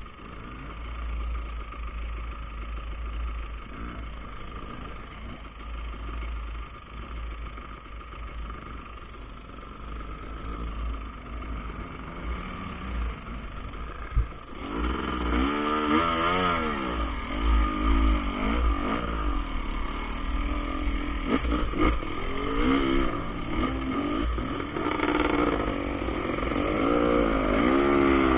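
KTM enduro dirt bike engine ridden off-road: quieter under a low rumble for the first half, then after a sharp knock about halfway it gets louder, revving up and down over and over.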